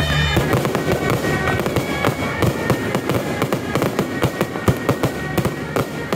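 Firecrackers going off in a rapid, irregular string of sharp bangs, many per second, over music.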